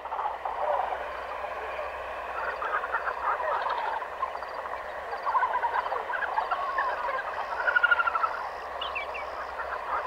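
African jungle morning chorus: many birds chirping and calling at once in a dense, steady wash, with a fast rapid trill standing out about eight seconds in.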